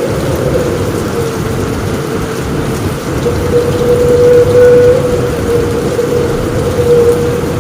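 Heavy rain on a roof with a steady hiss and low rumbling thunder that swells about halfway through. A wavering hum, like wind, runs underneath.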